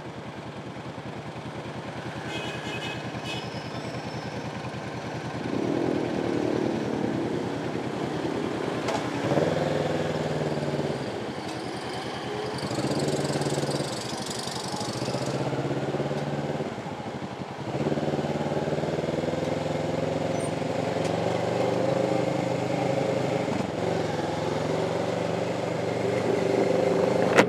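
Kawasaki Ninja motorcycle engine running on the move, its revs rising and falling several times as it speeds up and slows down in traffic.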